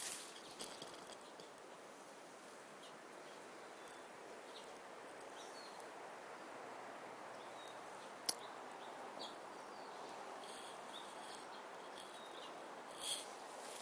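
Water from a leak running in a faint, steady rush, with short bird chirps over it and a single sharp click about eight seconds in.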